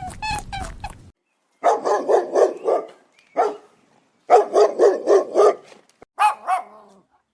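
A dog barking in quick runs of short yaps, several rapid series with brief pauses between them.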